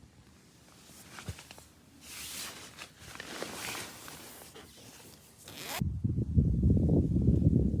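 A zipper pulled open or shut in several rasping strokes. About six seconds in it stops abruptly and a loud low rumbling noise takes over.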